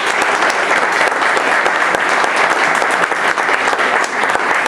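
School audience applauding: many hands clapping at once.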